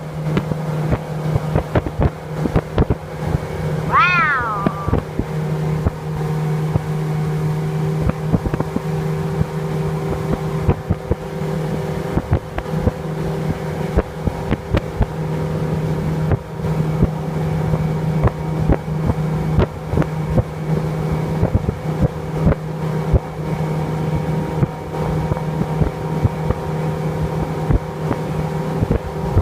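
Motorboat engine running steadily underway, a constant drone with frequent short knocks over it. A brief high cry rises and falls about four seconds in.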